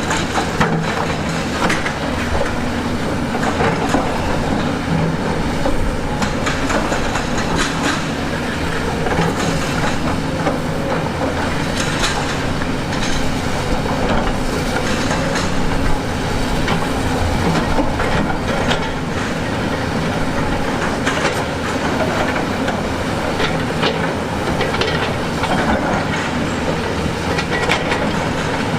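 Heavy diesel earthmoving machine running steadily, with frequent clanks and knocks of steel against rock throughout.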